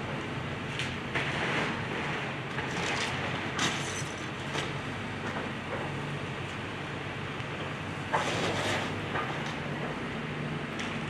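Excavator's diesel engine running steadily, with intermittent crunching and scraping of demolition debris; the loudest crash comes about eight seconds in and lasts about a second.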